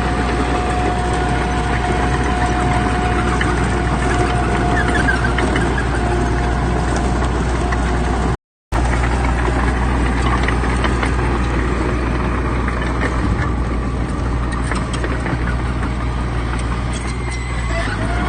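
Heavy earthmoving machinery's diesel engine running steadily under load, with a thin steady whine over the engine note that fades partway through and returns at the very end. The sound cuts out completely for a fraction of a second a little under halfway through.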